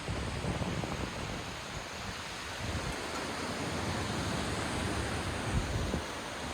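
Wind blowing steadily, with gusts buffeting the microphone in uneven low rumbles.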